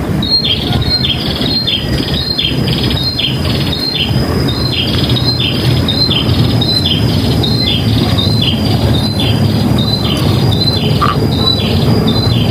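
A bird giving a short high call that drops in pitch, repeated over and over at about one and a half calls a second, over a steady high whine and a low rumble.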